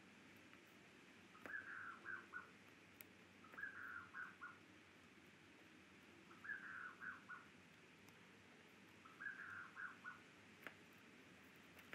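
Faint bird chirping: short phrases of three or four quick high notes, repeated every two to three seconds, with an occasional soft click.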